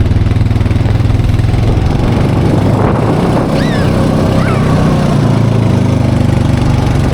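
Four-wheeler (ATV) engine running close by, its pitch shifting about two to three seconds in as it changes speed.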